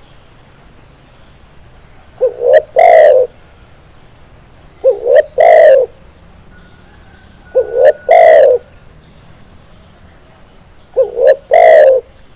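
Spotted dove (tekukur) cooing: four loud call phrases about three seconds apart, each two short notes running into a longer coo.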